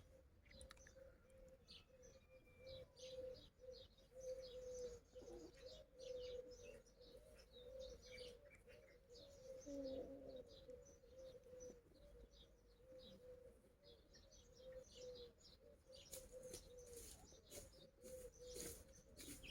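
Faint bird chirping: many short, high chirps scattered throughout, over a faint steady hum.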